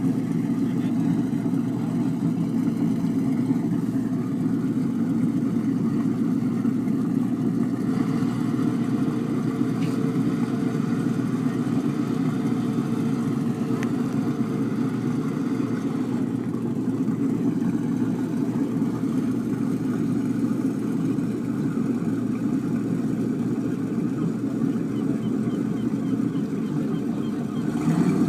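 Boat engine running steadily at low speed with an even, unchanging drone.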